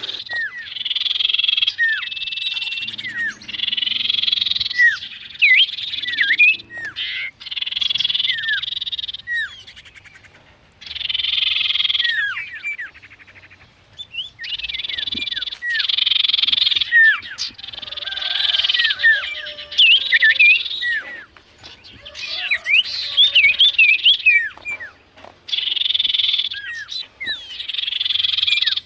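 Sirtu, a cipoh-type songbird, calling in repeated bursts of rapid trilled chatter with quick whistled slides. Each burst lasts a second or two, with short breaks between.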